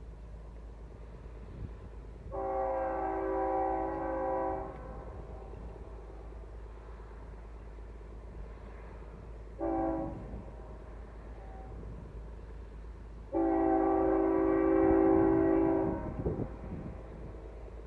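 Locomotive multi-chime horn sounding a long blast, a short one and another long one, the closing part of a grade-crossing signal.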